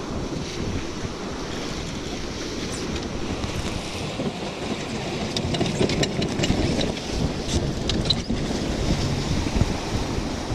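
Wind buffeting the microphone aboard a keelboat under sail, with water rushing along the hull and a few sharp ticks about halfway through.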